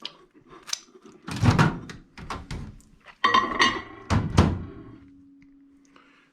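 Several thunks and knocks as a dish is handled and a microwave oven door is shut, then the microwave starts running with a steady low hum for the last second and a half.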